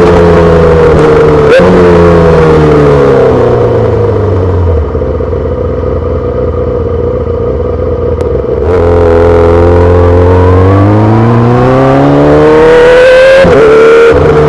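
2008 Yamaha R6's 600 cc inline-four through a full SC-Project exhaust: the engine note falls as the bike slows, settles at a low idle for about four seconds, then rises steadily as it pulls away, with a quick shift to the next gear near the end.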